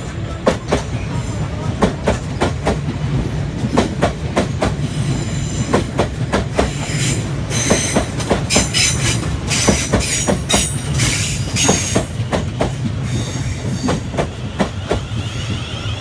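South West Trains Class 450 Desiro electric multiple unit running slowly past, its wheels clicking over rail joints and points over a steady low rumble. A high wheel squeal joins in for several seconds midway.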